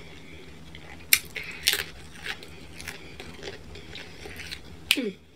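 Eating sounds of someone biting and chewing pizza crust close to the microphone: sharp crunchy clicks about a second in and again a little later, smaller mouth ticks between, and another sharp click near the end followed by a brief voiced sound.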